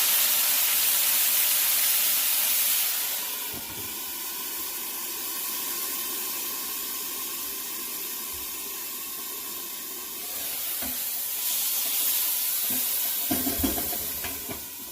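Curry paste of garlic, onion, curry powder and ground jeera sizzling and hissing with steam in a hot pan as a little water hits it. The hiss is loudest for about the first three seconds, settles lower, then swells again near the end.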